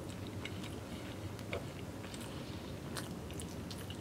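A person chewing a mouthful of food with the mouth closed: soft, scattered wet clicks and smacks over a low steady hum.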